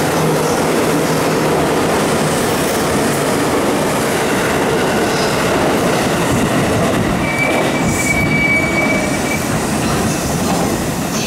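Passenger train running through the station at speed: a steady rush of wheels on rail, with a thin, high wheel squeal for about two seconds past the middle.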